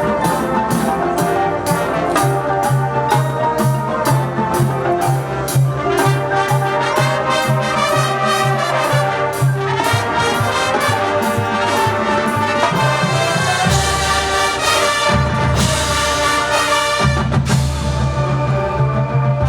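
High school marching band playing: brass section over a steady drum beat, with sustained low brass notes and a heavier low bass line coming in a little past two-thirds through.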